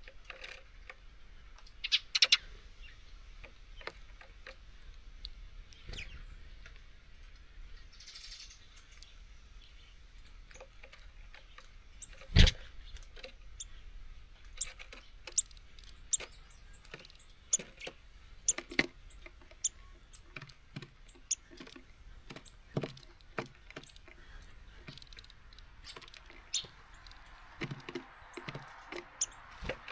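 Small birds at a seed feeder: irregular sharp taps and clicks of beaks and feet on the feeder, with a few brief high chirps. One louder knock comes about twelve seconds in.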